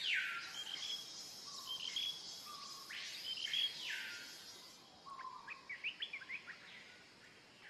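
Birds calling: two long whistled calls that rise, hold and fall, one at the start and one about three seconds in, then a quick run of short chirps near the end, over faint steady background hiss.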